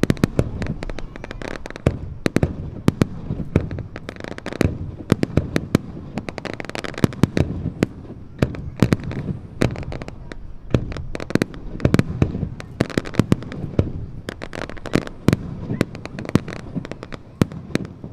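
Aerial fireworks shells bursting in a rapid, continuous barrage of bangs and crackles, heard from a distance.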